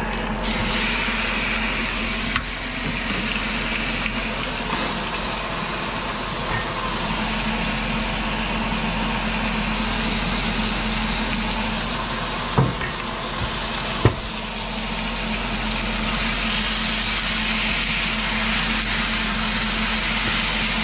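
Chicken breast frying, a steady sizzle, with a low hum underneath. Three short sharp knocks: one a couple of seconds in, two more a little past the middle.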